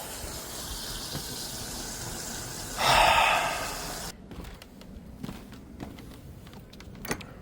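Water running steadily, surging louder for about a second near the three-second mark, then cutting off suddenly about four seconds in, followed by a few faint clicks and knocks.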